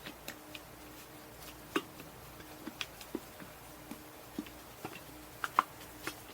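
Scattered, irregular light clicks and taps of a paint container and mixing tools being handled while bed liner is mixed, with one sharper tap near the end.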